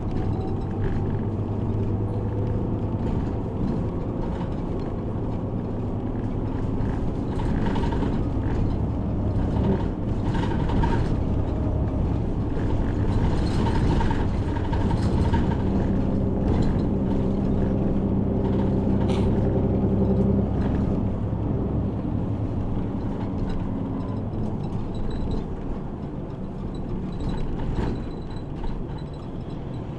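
A route bus driving, heard from inside the cabin: a steady low engine hum whose pitch shifts as it drives, with scattered rattles and knocks from the body and fittings.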